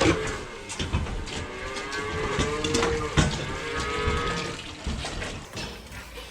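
Dairy cows mooing in long, drawn-out calls, with scattered knocks among them.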